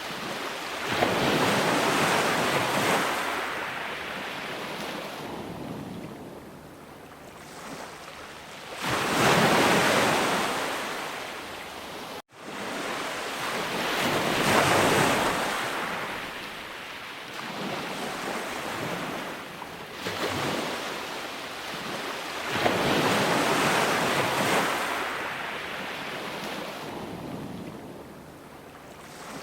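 Ocean surf: waves breaking and washing up the shore, rising in a rushing surge every five seconds or so and falling back to a softer wash in between. A brief sudden dropout about twelve seconds in.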